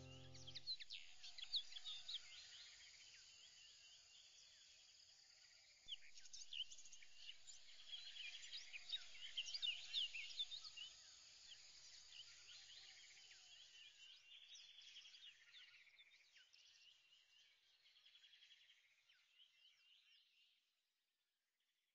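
Faint chorus of many small birds chirping, which fades out near the end.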